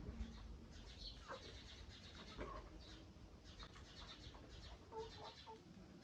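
Local chickens clucking faintly, a few short scattered calls, ending in a quick run of three short notes about five seconds in.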